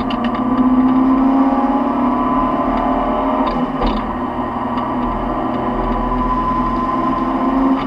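Nissan 180SX engine running hard at high revs, heard from inside the cabin: a steady, loud engine note that climbs slowly in pitch, with a short drop in level near the end.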